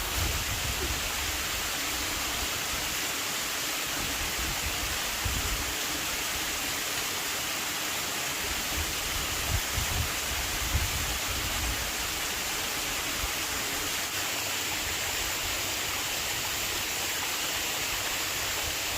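Steady rushing of flowing water, with a few brief low thumps about 5 and 10 seconds in.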